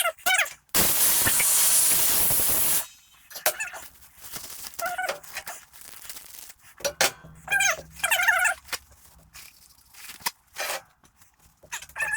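A two-second blast of compressed air from a shop air blow gun, starting about a second in and cutting off sharply. Short, high squeaky cries come on and off before and after the blast.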